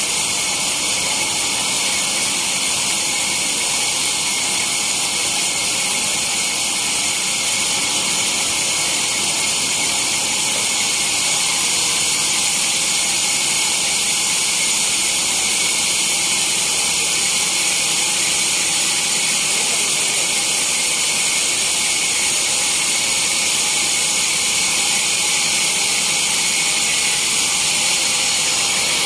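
Sawmill saw running steadily with a high, hissing whine that holds an even level throughout.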